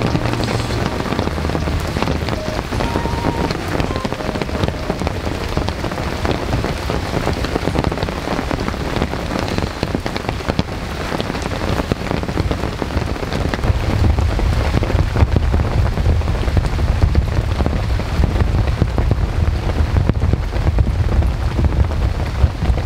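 Heavy rain falling: a dense, steady patter of drops hitting a nearby surface.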